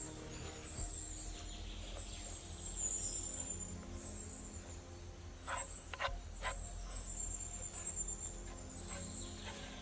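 Steady high-pitched insect chirring, with three short knocks a little past halfway.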